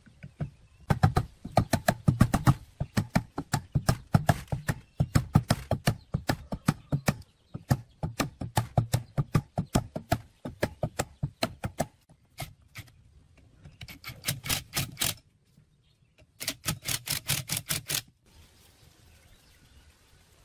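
Rapid series of sharp taps or knocks, about six or seven a second, in several runs with short pauses between them, stopping near the end.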